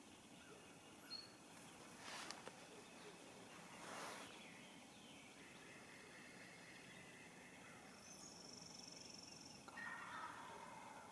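Quiet woodland ambience: faint distant bird calls, including a thin high trill and a short call near the end, with a couple of brief rustles.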